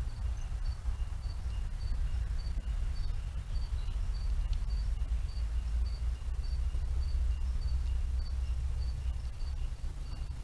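An insect calling in a steady rhythm of short high chirps, about two to three a second, over a constant low rumble.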